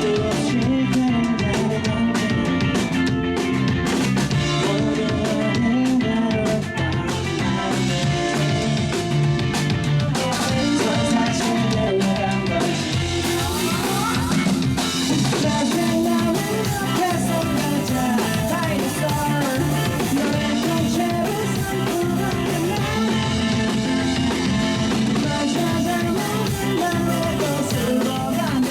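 Live rock band playing a song, with drum kit, electric guitar and a singing voice.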